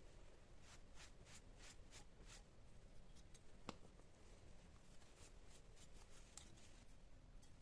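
Near silence with faint rustling and light clicks of things being handled, and one sharper click about halfway through.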